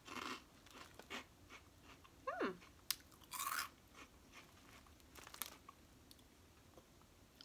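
A person chewing crunchy cheese-flavoured snack fries: a run of crisp crunches in the first four seconds or so, then quieter chewing.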